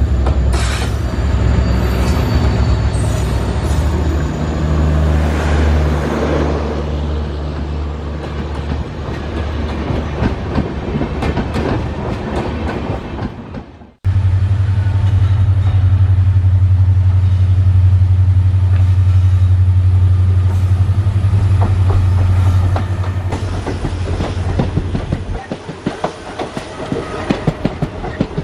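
Railway train running: a deep, steady locomotive engine drone with the clickety-clack of wheels over rail joints. The sound cuts off abruptly about halfway and restarts at once with a louder drone, which drops away a few seconds before the end, leaving the clatter.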